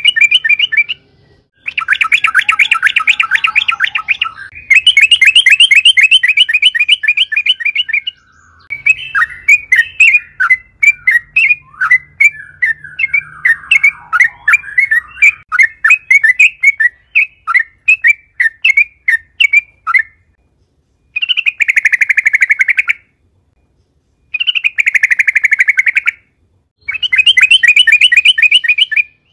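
Yellow-vented bulbul (trucukan) singing loud, rapid chattering phrases of a couple of seconds each, separated by short pauses, with one long run of varied notes in the middle. This is the long, continuous 'ngerol' song that keepers use to provoke caged birds into answering.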